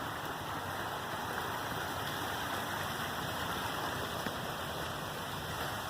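Steady rush of flowing stream water above a waterfall.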